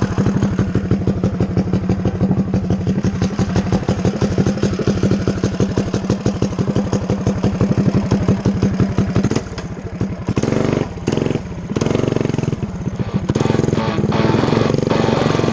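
Small single-cylinder engine of a Coleman CT100U mini bike running steadily while riding. About nine and a half seconds in, the sound changes, dipping briefly several times before settling into a different steady run.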